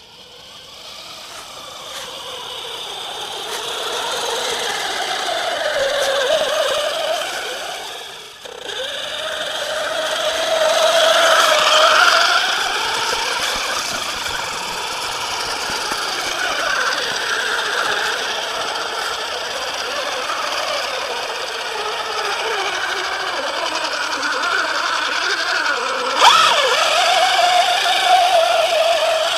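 1/8-scale HobbyKing Basher Nitro Circus RC monster truck driving over rough ground: its motor whine rises and falls with the throttle over a steady rattle of drivetrain and chassis. The sound grows louder over the first few seconds, drops out briefly near 8 seconds, and there is a sharp knock about 26 seconds in.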